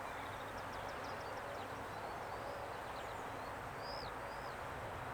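Honeybees buzzing steadily around an open hive during a frame inspection, with small birds chirping in the background.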